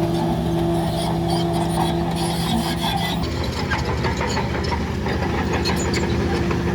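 A heavy earthmoving machine's diesel engine running steadily, with metallic rattling and scraping over it. The engine note shifts about three seconds in.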